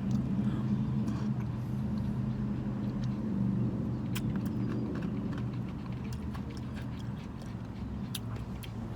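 Car engine idling with a steady low hum, heard from inside the cabin, with a few faint clicks about four and eight seconds in.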